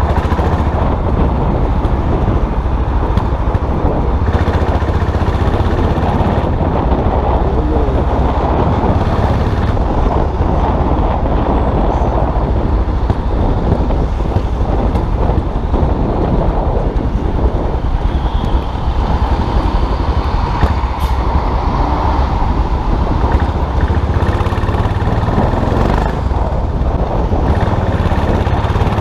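Custom motorcycle's engine running steadily while riding, with road and traffic noise around it.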